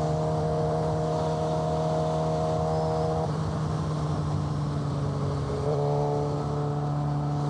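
Suzuki GSX-R600 inline-four with an aftermarket M4 exhaust idling steadily while stopped, with no revving.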